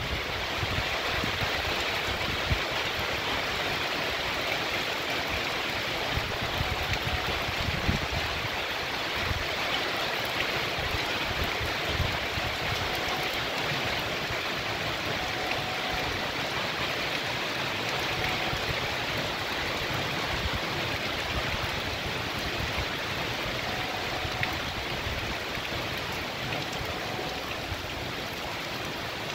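Heavy rain falling steadily on a paved street and a leafy tree, with rainwater running along the street.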